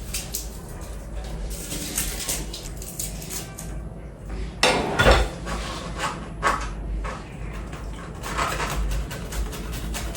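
Kitchen dishes and utensils clattering and knocking during food preparation, with a louder clatter about halfway through.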